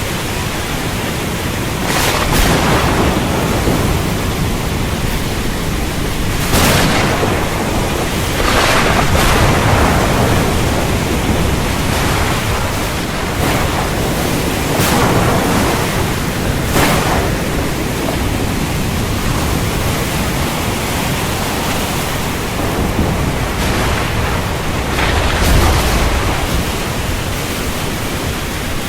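Heavy rain pouring steadily, swelling in brief louder surges several times, with a low rumble of thunder near the end.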